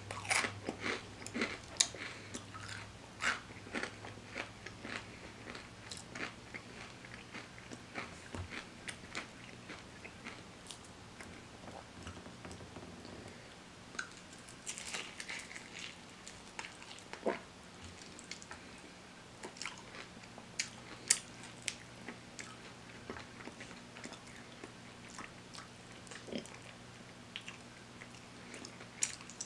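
Biting and chewing crispy fried chicken close to the microphone: irregular crunches and sharp clicks, some louder bites near the start and about two-thirds of the way in.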